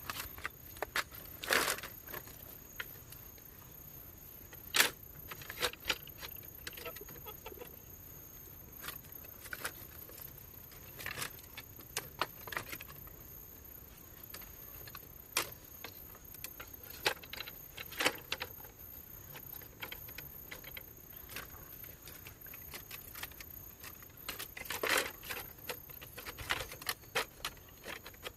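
Irregular light knocks and clatters, a few louder than the rest, of bamboo pieces being handled and knocked together, over a steady high-pitched tone.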